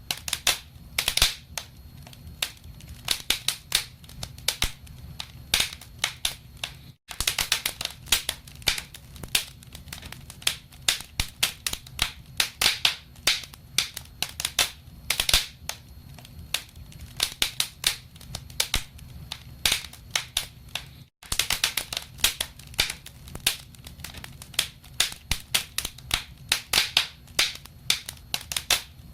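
Wood fire crackling in a fireplace: irregular sharp pops and snaps over a low rumble of burning. The sound cuts out for an instant twice.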